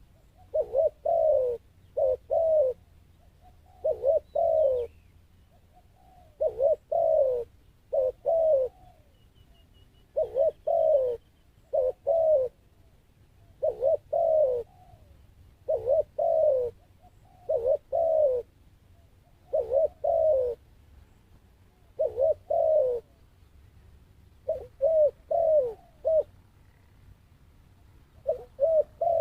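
Zebra dove cooing in short phrases of two or three falling notes, repeated about every two seconds.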